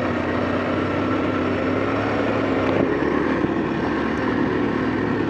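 Kawasaki KLX230's single-cylinder four-stroke engine running at steady revs, an even hum that barely rises or falls.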